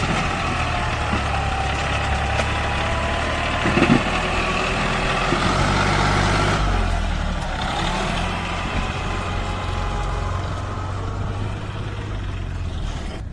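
Diesel tractor engine running steadily, with a brief louder knock about four seconds in and a change in the engine note around the middle.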